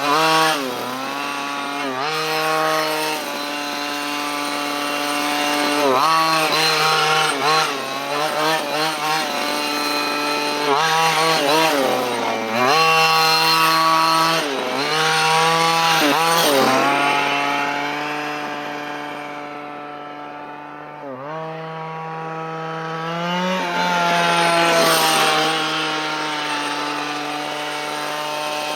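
Dynamite CY23cc two-stroke gas engine of a 1/5-scale Losi Desert Buggy XL running during its break-in: a steady idle broken by repeated short throttle blips that rise and fall in pitch. About two-thirds of the way through it runs quieter for a few seconds before blipping again.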